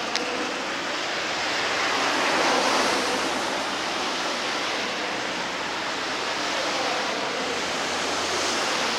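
Steady outdoor rushing noise with no distinct events, swelling a little about two and a half seconds in, with a faint click at the very start.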